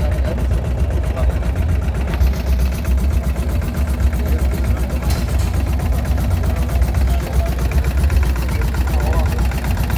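Motorcycle engine idling steadily, its low note even throughout.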